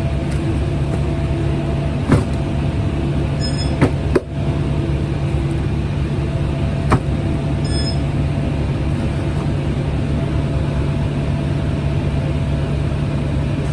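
Steady low mechanical hum from a delivery truck running, with a few short knocks and clunks.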